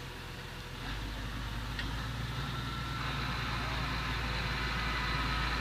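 A heavy vehicle engine running with a steady low hum, getting louder about a second in and building slowly from there.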